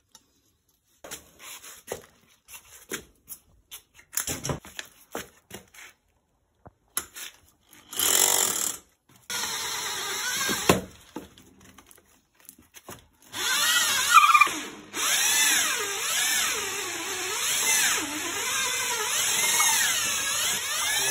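Scattered knocks and clicks, then a power drill boring into a wooden log in several runs: a short burst, a longer one, and a long steady run through the second half. The motor's pitch wavers up and down as the bit works through the wood.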